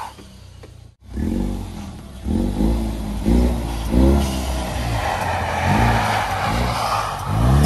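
Car engine revving up and dropping back in a series of short bursts, several times in quick succession, as the car is driven hard with the throttle blipped.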